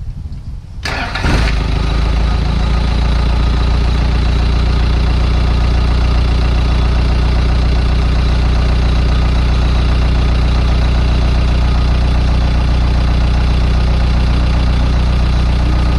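Isuzu 4BD1T four-cylinder turbo direct-injection diesel starting about a second in and settling into a steady idle: a warm restart that catches quickly.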